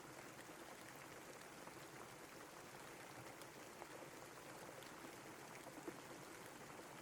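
Faint steady rain, an even hiss with scattered small drop ticks.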